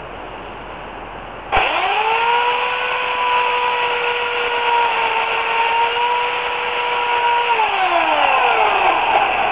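Remington Limb n Trim electric chainsaw (8-amp motor, 14-inch bar) switched on about a second and a half in: the motor spins up quickly to a steady high whine and runs for about six seconds, then the trigger is released and it winds down with a falling whine.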